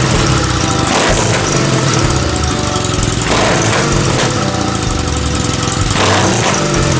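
Kawasaki W800's air-cooled parallel-twin engine running through a W650-type POSH aftermarket muffler, with a heavy rushing hiss over it; the sound swells briefly about a second in, about three seconds in and near the end.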